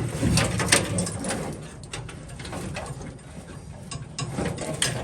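Irregular rustling, clicks and knocks of old wiring being handled and pulled about in the truck, busiest in the first second and again near the end.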